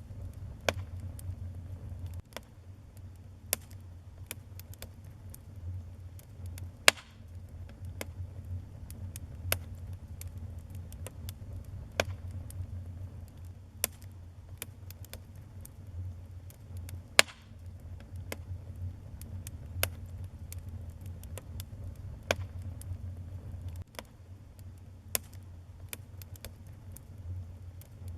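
Wood fire burning in a fireplace: a low steady rumble of flames with irregular sharp crackles and pops, two of them much louder, one about a quarter of the way in and one past the middle.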